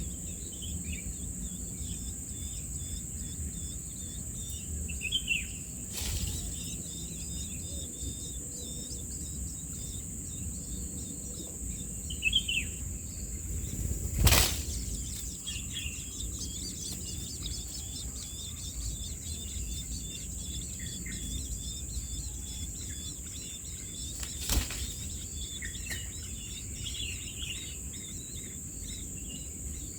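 Small birds chirping and twittering again and again, with a couple of louder falling calls, over a steady high-pitched insect drone. Three sharp clicks cut through: about six seconds in, near the middle (the loudest), and about two-thirds of the way through.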